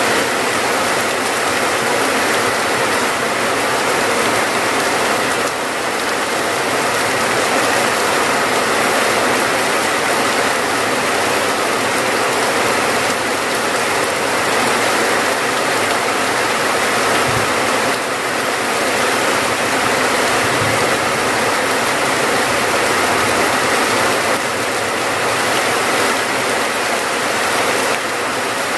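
Steady rain falling, a dense, even hiss of many drops with no let-up.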